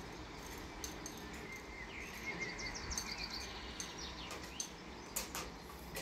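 Birds chirping faintly over steady low outdoor background noise, with a quick high trill about halfway through and a few short clicks.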